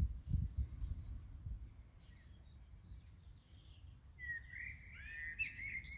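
Small birds chirping, faint at first, then a run of louder chirps and short gliding whistles in the last two seconds. A low rumble, like wind on the microphone, in the first second and a half.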